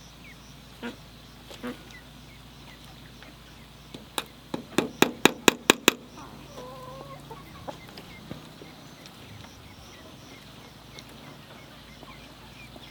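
Chickens and chicks peeping and clucking. About four seconds in comes a quick run of roughly nine sharp knocks, about four a second, which are the loudest sound.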